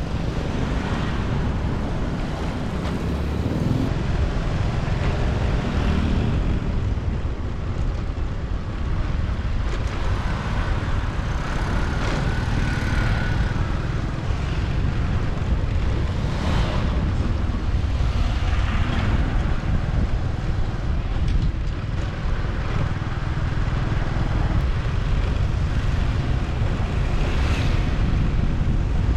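Motorbike riding through city traffic: a steady low engine and road rumble with wind buffeting the microphone. A faint held tone rises above it near the middle, and other vehicles briefly swell past a couple of times.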